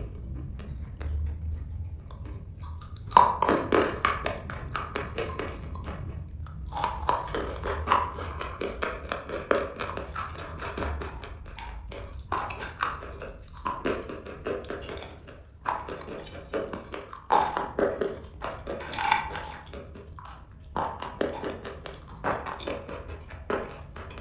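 Close-up crunching and chewing of dry black chalk chips: dense crackly crunches that come in bites of a few seconds each, with short pauses between them.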